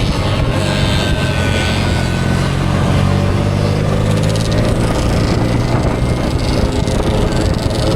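Motorcycle engine running steadily under way, its pitch shifting a little around the middle, under a constant rush of wind noise.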